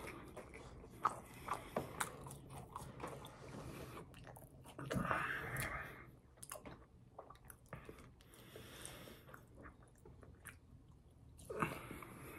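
Close-up chewing of French fries: wet mouth sounds, lip smacks and small clicks, with a louder noisy stretch about five seconds in.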